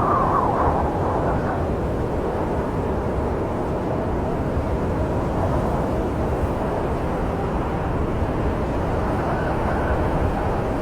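Snowstorm wind blowing as a steady low rumble, with a faint whistle at the start and again near the end.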